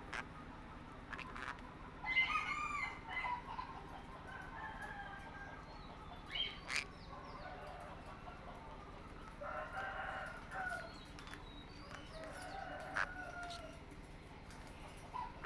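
Small pet parrots calling: bursts of squawks and sharp chirps, about five clusters with pauses between, over a steady low background hum.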